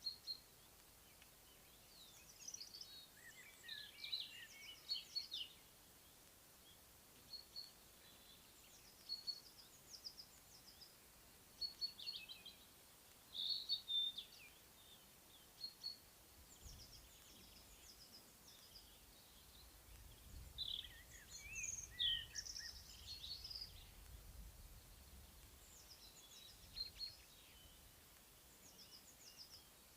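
Several wild songbirds singing and calling in spring countryside, in short chirps and trills that come and go. A faint low rumble sits beneath them in the second half.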